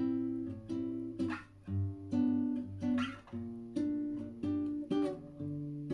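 Acoustic guitar playing the opening chords of a samba tune: plucked chords, one after another with short breaks between them.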